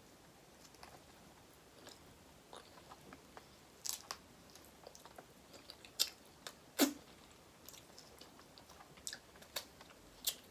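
Crab shell being cracked open and eaten: scattered sharp cracks and clicks at irregular intervals, the loudest about four, six and seven seconds in.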